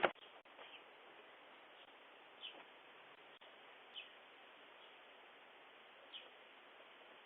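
Three short, high bird chirps about a second and a half to two seconds apart, over a steady hiss, heard through a video doorbell's thin-sounding microphone. A sharp click right at the start is the loudest thing.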